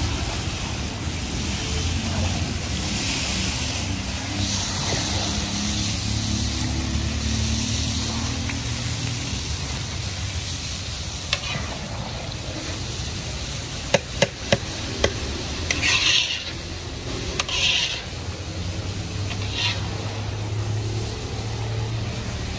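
Food sizzling in hot oil and being stirred in a large cooking pot, over a steady low rumble. A quick run of sharp utensil knocks comes about two thirds of the way through, followed by short bursts of louder sizzling.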